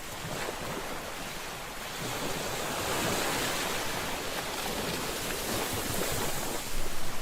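Ocean surf: waves breaking and washing in, the rush swelling over the first few seconds and then holding steady.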